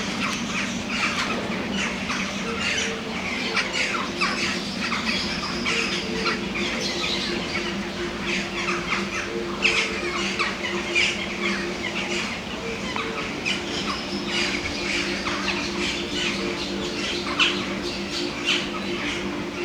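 Many birds calling at once, a dense mix of squawks and chirps, over a steady low hum.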